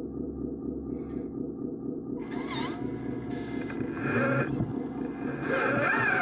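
Small motor of an RC construction machine running steadily, with bird calls coming in over it from about two seconds in.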